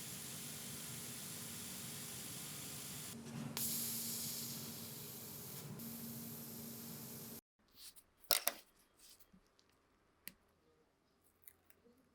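A steady spray hiss that grows louder about three seconds in and cuts off abruptly a little past halfway. It is followed by a few short, sharp clicks and taps.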